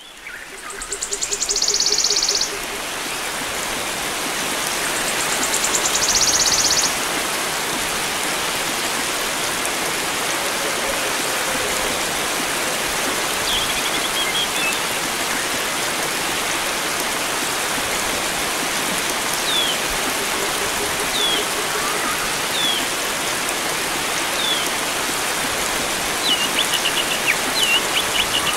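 Steady rush of flowing water with wild birds calling over it: two loud, high, buzzing trills in the first seven seconds, then short sharp downward chirps from about halfway, coming in a quick series near the end.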